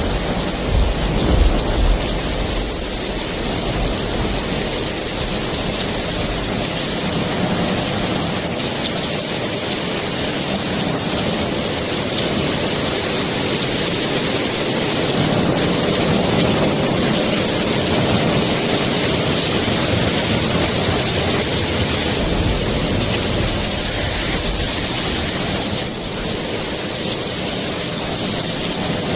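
Steady heavy rain, an even hiss with no let-up. Low rumbles of distant thunder run under it in the first several seconds and again near the end.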